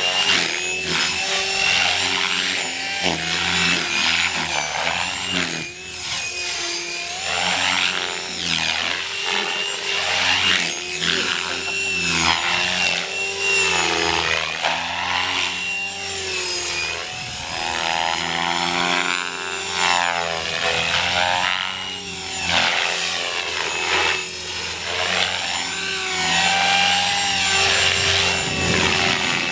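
GAUI Hurricane 425 electric radio-controlled helicopter in aerobatic flight: rotor blade buzz and motor whine continuously rising and falling in pitch as it manoeuvres.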